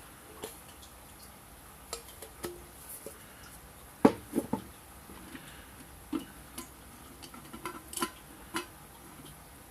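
Small metal items clinking and knocking as they are handled and set down, in scattered light taps with a louder clank and two quick follow-up knocks about four seconds in.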